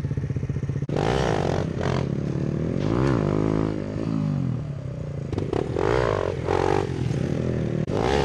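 Small motorcycle engine idling, then blipped and revved several times, its pitch rising and falling with each twist of the throttle.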